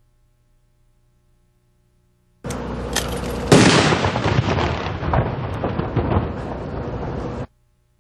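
Fireworks going off: a sudden loud burst about two and a half seconds in, a sharper bang a second later, then rapid crackling pops that cut off suddenly near the end.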